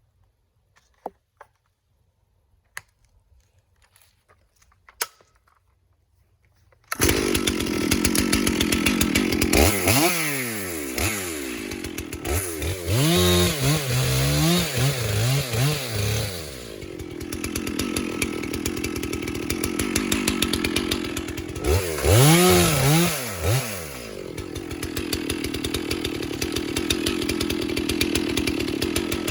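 A few faint clicks, then about seven seconds in a Stihl MS460 two-stroke chainsaw comes in suddenly at high revs. Its pitch drops and recovers repeatedly in two spells as the chain loads up cutting into the stump, with steady running in between.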